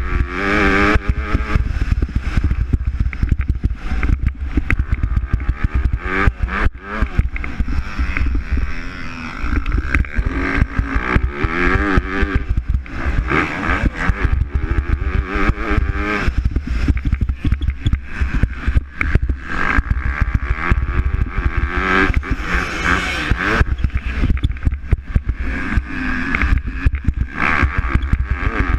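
MX2-class motocross bikes racing, their engines revving up and falling back again and again as riders work the throttle and shift through the gears, with more than one bike heard at times.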